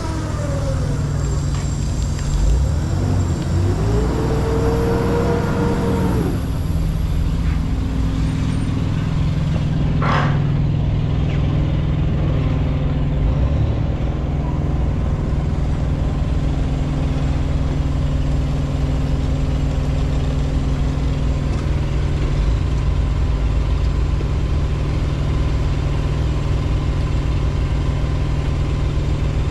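Heavy vehicle engine idling steadily. A whine rises and holds from about four to six seconds in, and there is a short sharp hiss or knock about ten seconds in.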